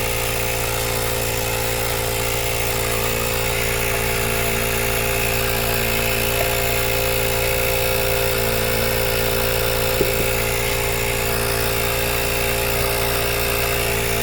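Michelin 12 V portable tyre inflator's compressor running steadily with a loud, even buzzing drone as it pumps up the tyre.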